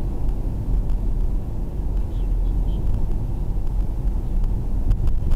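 Steady low rumble of a car's engine and road noise, heard inside the taxi's cabin through its dashcam, with a couple of faint clicks near the end.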